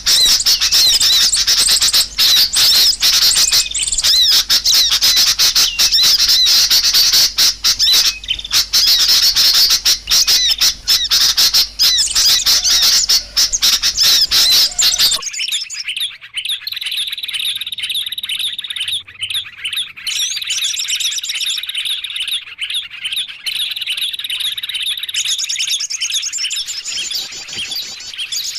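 Bird-lure recording of small birds: dense, rapid high chirping and twittering for about the first half, then an abrupt cut to a quieter, sparser run of high, thin chirps.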